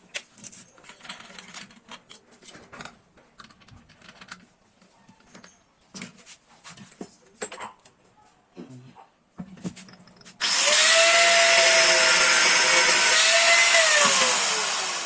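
Light clicks and knocks of handling, then an angle grinder fitted with a cutting disc starts abruptly and runs loud and steady. Near the end its pitch falls as it slows.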